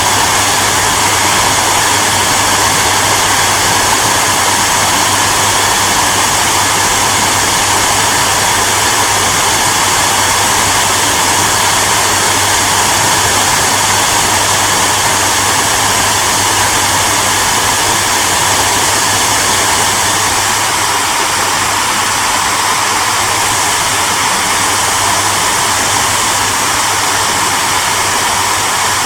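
Hair dryer running steadily: a continuous blowing rush with a low, constant motor hum underneath.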